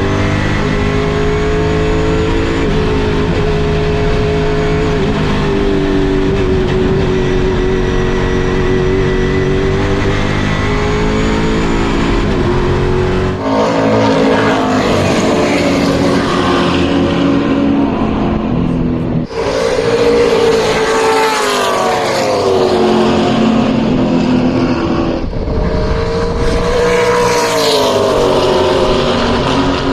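Historic muscle race car's engine at racing speed, heard from on board. It holds a fairly steady high note for about the first half, then the revs rise and fall again and again, with wind and road noise rising alongside.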